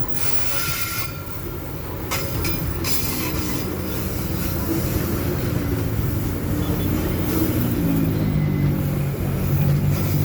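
Babaranjang long coal train running on the rails: steady wheel rumble with a few clacks early on, and a low drone that grows louder through the second half.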